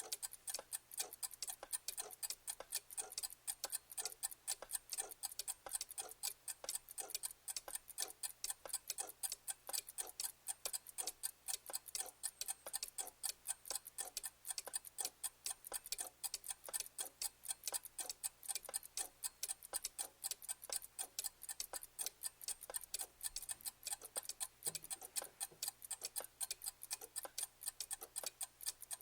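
Clock ticking in a rapid, even rhythm.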